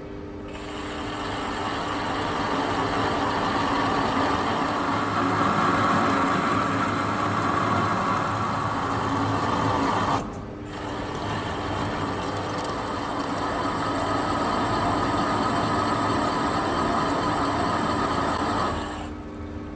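Metal lathe running with a steady motor hum while a button insert cuts deeper weld prep into the steel cylinder rod and eye, giving a rough, grinding cutting noise. The cut runs in two long passes with a brief break about halfway and stops near the end, leaving the lathe running.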